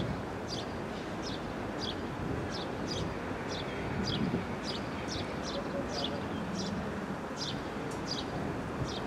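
A small bird chirping over and over, short high notes that each drop in pitch, about two a second, over a steady background hiss.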